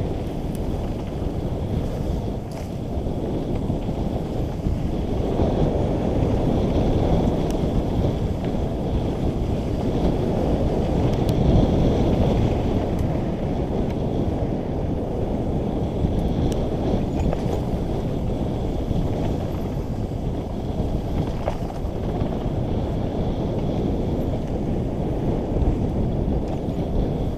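Wind buffeting the microphone of a mountain biker's camera on a fast downhill run, a steady rumble that swells louder a couple of times, with a few sharp clicks from the bike.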